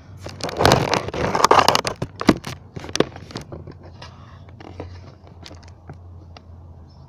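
A burst of rustling and scraping with sharp clicks, starting about half a second in and lasting about two seconds, followed by scattered fainter clicks.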